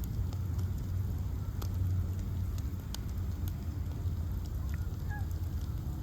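Bonfire of ash logs burning, with a low steady rumble and scattered sharp crackles and pops from the wood.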